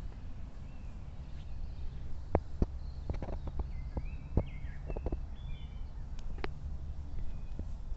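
Outdoor ambience with a steady low rumble, a handful of sharp clicks or snaps, and short high chirps from birds in the middle.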